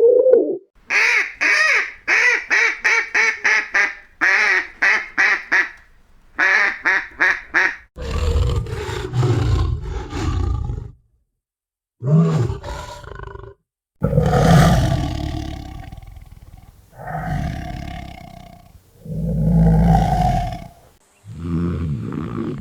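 Animal calls: a quick run of short, repeated higher-pitched calls, then several long, deep calls one after another.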